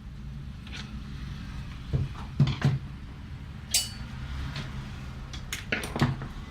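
Scattered metallic clinks and knocks of small parts and tools being handled on a workbench, one clink ringing briefly a little before the middle, over a steady low hum.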